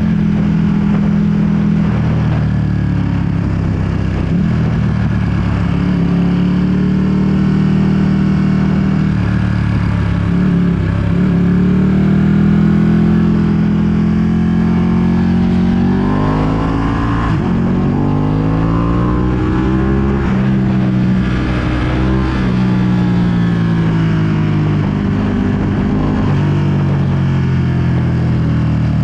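2020 Ducati Panigale V2's 955 cc L-twin running through a full Akrapovic exhaust while under way, with wind noise on the microphone. The engine note holds steady for a while, then climbs in pitch in a few steps about halfway through before falling back to a steady cruise.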